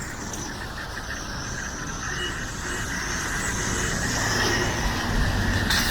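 Street traffic noise: a vehicle's engine and tyres growing gradually louder as it comes closer.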